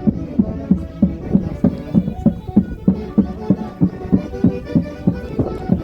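Andean folk orchestra playing festival music, with a steady, quick beat of low drum strokes, about three to four a second, under held melody lines.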